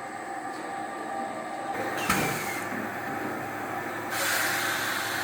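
Factory machinery running steadily with a sharp clank about two seconds in and a burst of hissing near the end.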